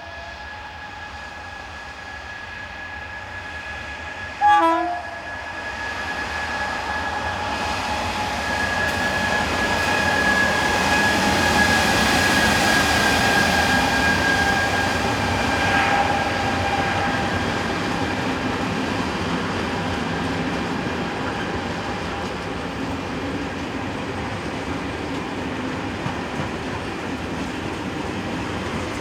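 RENFE Class 251 electric locomotive giving one short horn blast about four seconds in, then approaching and passing with its train. The rolling noise builds to a peak and stays up, and a steady whine dips slightly in pitch as the locomotive goes by.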